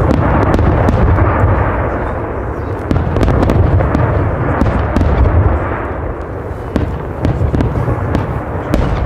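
Fireworks going off in a dense barrage: a continuous low rumble of booms with many sharp cracks on top.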